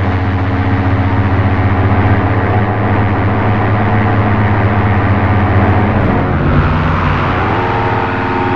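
Dense electronic drone from a Forge-TME VHIKK X synthesizer module: many held tones over a noisy haze. About six to seven seconds in, the texture shifts and new higher tones come in.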